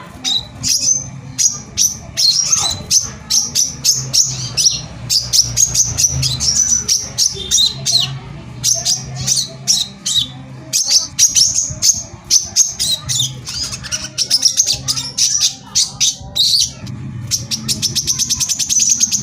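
Sogon songbird singing a long run of quick, varied chirps and trills, ending in a very fast, even trill; a steady low hum runs underneath.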